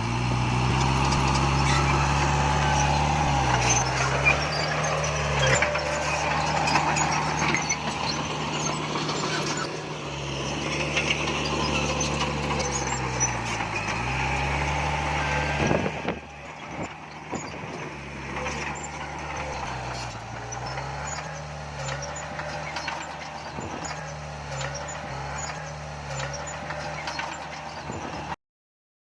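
Diesel engine of heavy earthmoving machinery running, its pitch dipping and recovering several times. The sound gets quieter about halfway through and cuts out suddenly shortly before the end.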